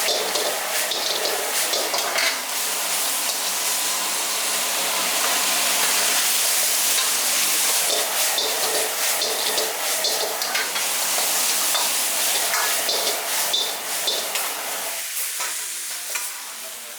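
Food sizzling as it fries in a hot wok, with a steady frying hiss and frequent sharp clinks of a metal ladle against the pan as it is stirred. The sizzle eases off a little near the end.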